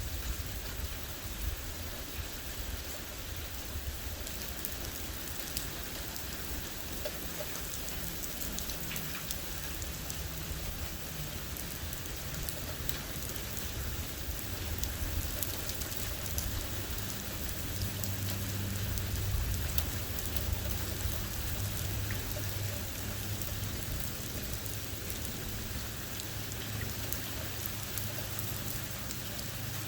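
Steady rain falling during a thunderstorm, with many fine drop ticks over a constant wash. A low steady hum comes in about two-thirds of the way through.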